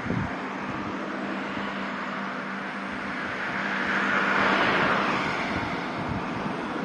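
Outdoor vehicle noise: a steady low hum under a wash of noise, with something passing that swells up about four seconds in and fades again a second or so later.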